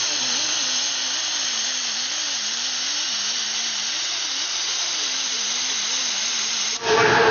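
Angle grinder running with its abrasive disc against skin: a steady grinding hiss over a motor tone that wavers up and down in pitch as the load changes. It cuts off suddenly near the end.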